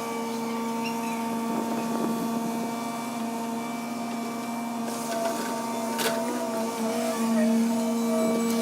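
HW60 excavator's engine and hydraulic pump running, a steady mechanical whine that drops in pitch right at the start and rises a little about six seconds in as the load changes.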